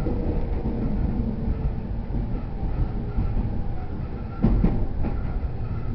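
Interior running noise of an E231-0 series electric commuter train: a steady low rumble of wheels on rail with a faint motor whine, and two sharp knocks about half a second apart near the end as the wheels cross a rail joint.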